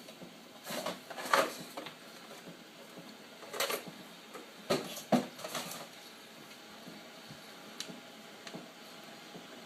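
Objects being handled at a coffee maker: three short bursts of clattering and clicking, about a second in, near four seconds and near five seconds, with quiet room tone between.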